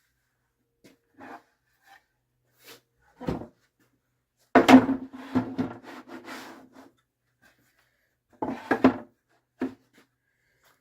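Wooden pieces being handled on a table saw's table: scattered knocks and clatters, the loudest a cluster of bangs with a short scraping slide about halfway through, then two more knocks near the end.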